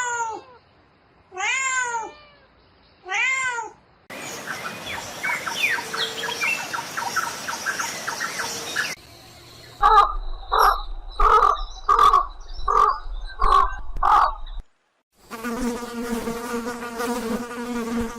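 A string of separate animal sound effects: three short calls that rise and fall in pitch, then a chirping chorus, a run of about seven evenly spaced calls, and a steady insect-like buzz near the end.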